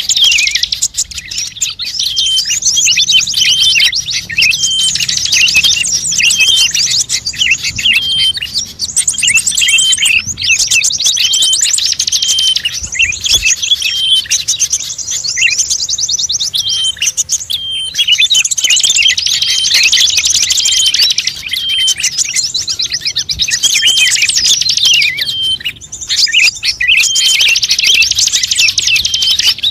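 Bird-lure recording of small songbirds chirping and trilling in a dense, rapid, continuous chatter, with a short break about every eight seconds, played to draw wild birds in.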